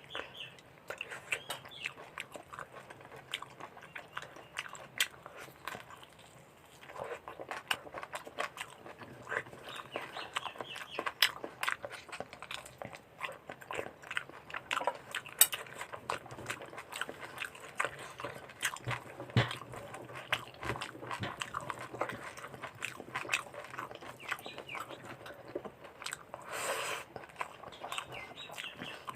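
Close-miked eating of mutton curry with rice: irregular chewing, biting and wet mouth clicks, with occasional crunches.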